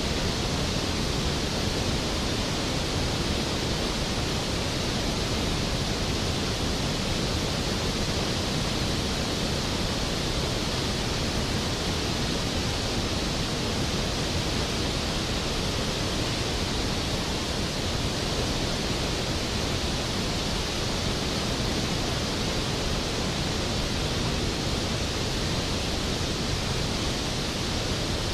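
Skógafoss, a large waterfall, crashing into its plunge pool: a steady, dense rush of falling water.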